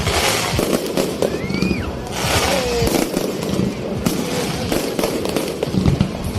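Fireworks going off in a dense, continuous run of crackling pops and sharp bangs, with a few brief whistling tones rising and falling over them.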